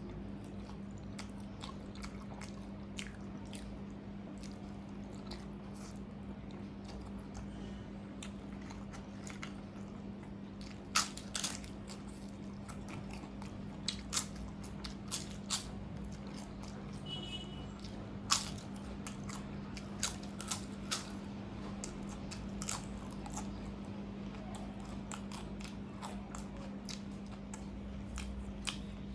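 Close-miked eating of crunchy fried food: biting and chewing with sharp crunches, the loudest clustered in the middle stretch, over a steady low hum.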